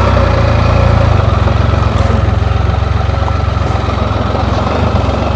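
Can-Am Spyder three-wheeled motorcycle engine running slowly with a steady low throb, heard close up from the rider's seat.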